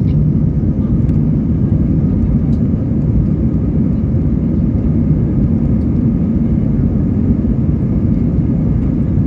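Airbus A320 jet engines running: a loud, steady low rumble that holds even throughout.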